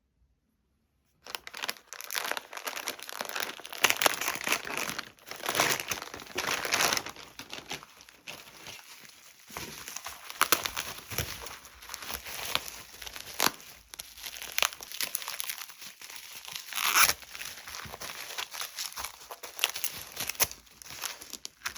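Parcel packaging being unwrapped by hand: crinkling and tearing wrap, with frequent sharp snaps. It starts about a second in.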